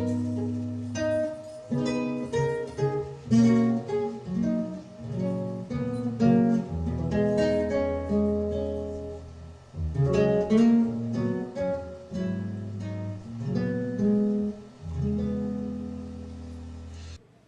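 Acoustic guitar playing an instrumental passage of picked notes and strummed chords; it cuts off suddenly near the end.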